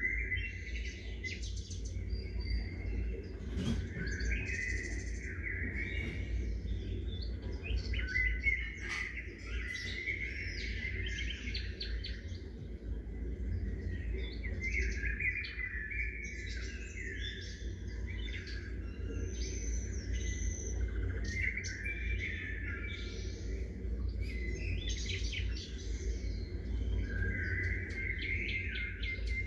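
Many small birds chirping and calling over one another in a continuous, busy chorus, over a steady low rumble.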